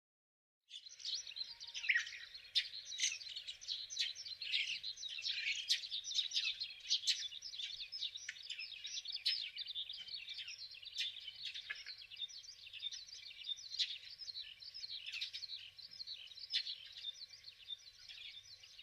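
A flock of small birds chirping, many rapid overlapping calls at once, starting abruptly just under a second in.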